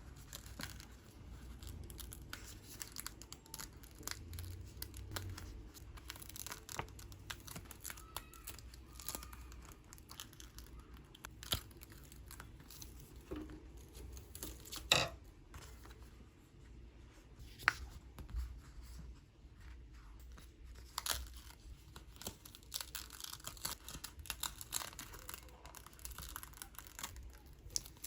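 Paper and plastic being handled up close: steady crinkling and tearing with many small sharp clicks and taps, the loudest about halfway through.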